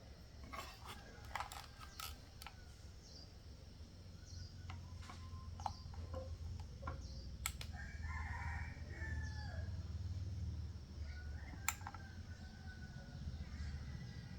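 A rooster crowing once, about eight seconds in, over scattered sharp clicks and taps and a steady low hum.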